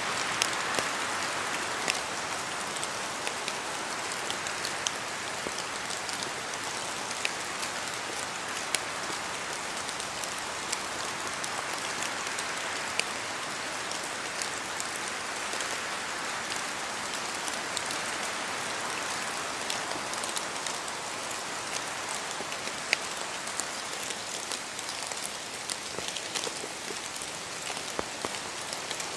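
Steady rain in a forest, with many sharp drips from drops falling off the trees over a constant hiss. The hiss swells and eases slowly a few times as the wind stirs the canopy.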